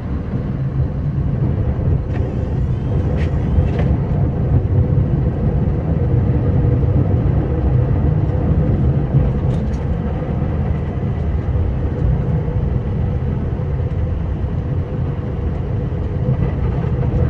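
Scania R560 truck's V8 diesel engine running steadily while plowing snow, a low drone that builds a little over the first couple of seconds and then holds.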